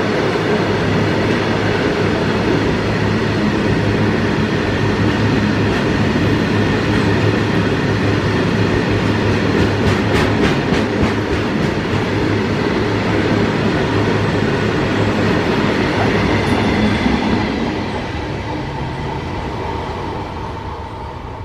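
Diesel-hauled freight train rolling past, wagon wheels clattering over the rail joints. The sound drops about 17 seconds in and fades as the train moves away.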